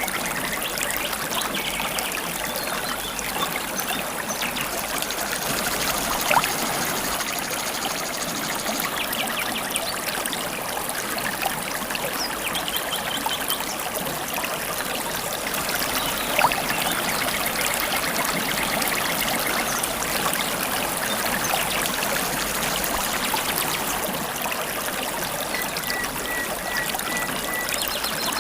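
River water babbling and trickling steadily, with faint wild birds calling over it. Two brief louder sounds stand out about six and sixteen seconds in.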